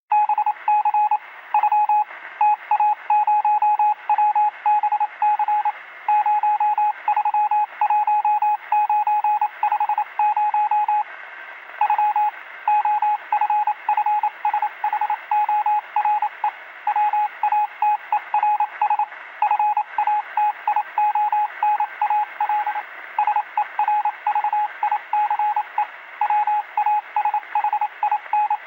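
A single beep tone switched on and off rapidly in uneven short and long beeps, heard through a narrow radio-like channel with steady hiss.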